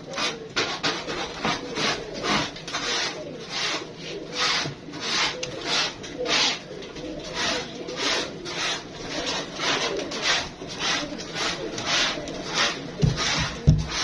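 A rasping, scraping stroke repeated about twice a second, with pigeons cooing faintly underneath. Two low thumps come near the end.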